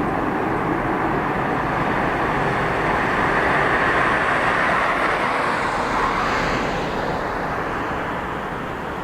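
Jet engine noise from an ANA Boeing 737-800's CFM56 turbofans, a steady loud rush that fades over the last couple of seconds.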